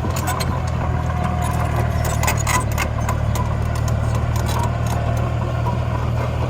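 Engine of a heavy earth-moving machine running steadily, with scattered sharp clicks and scraping.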